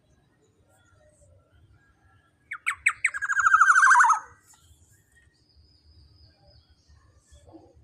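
Black-naped oriole (kepodang emas) giving one harsh, rapid rattling call about two and a half seconds in, lasting under two seconds, its notes sliding lower as it goes.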